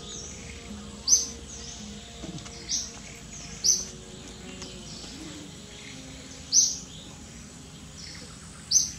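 A bird calling outdoors: a short, sharp, high chirp repeated about five times at uneven intervals, over a steady background hiss.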